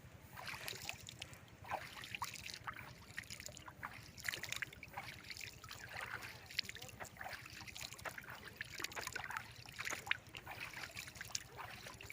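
Water trickling and splashing around a rowed wooden country boat as it moves along the river, with many small irregular drips and splashes over a steady low hum.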